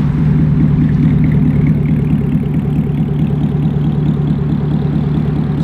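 Devel Sixteen prototype's test engine idling steadily, with a low, even pulse.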